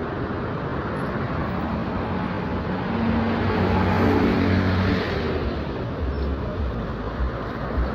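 A motor vehicle passing close by on the street, its engine loudest about four seconds in, over steady traffic noise.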